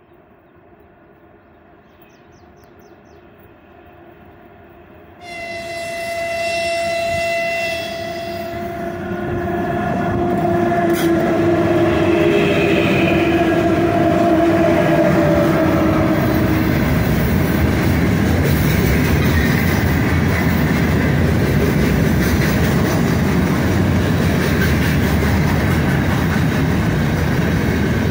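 2ES5K Ermak electric freight locomotive's horn: a long blast about five seconds in, then a second blast that falls in pitch as the locomotives pass. After that comes the loud, steady rolling noise and clatter of the freight wagons going by.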